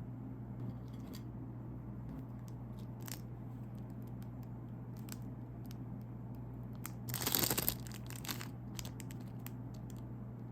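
Plastic snack wrapper crinkling, with a louder tearing rip about seven seconds in and a shorter one just after.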